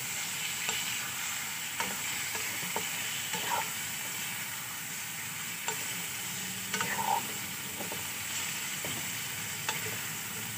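Boiled anguli pitha (finger-shaped dough pieces) sizzling in oil and spice paste in a wok as they are gently stirred with a spatula: a steady sizzle, with occasional light knocks and scrapes of the spatula against the pan.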